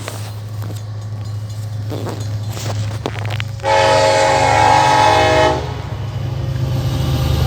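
Freight train's CN diesel locomotives rumbling steadily as the train approaches. About three and a half seconds in, the lead locomotive's air horn sounds one loud chord for about two seconds, and the rumble grows louder after it.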